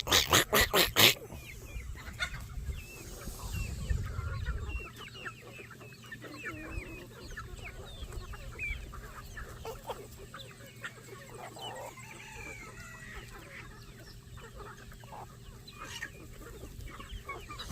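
A flock of chickens clucking and chirping in short, scattered calls. It opens with a quick run of sharp clatters in the first second.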